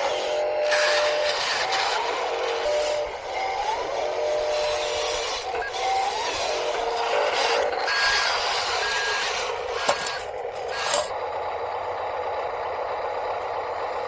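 Radio-controlled construction machines working: small motors whining steadily, rising in pitch several times as they speed up. About eight seconds in come four short beeps, like a reversing alarm.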